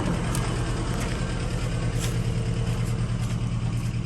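1985 Toyota pickup's engine running at a steady speed, a low even hum with a few faint clicks over it.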